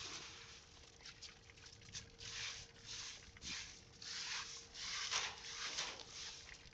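Dog breathing noisily in a series of short, irregular huffs, about seven in six seconds.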